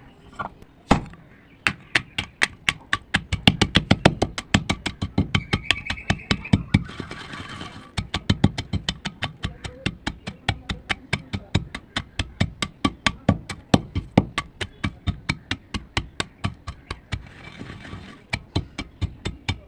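A rapid, even series of sharp, crisp crunches or clicks, about four or five a second, with brief hissing stretches about seven seconds in and again near the end.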